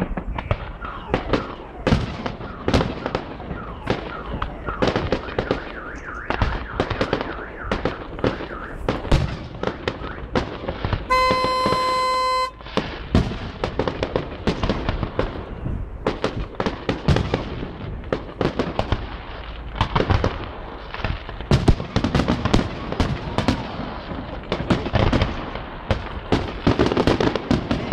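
Fireworks display: a rapid, continuous series of bangs and crackles from bursting aerial shells. A steady beep lasts about a second and a half near the middle.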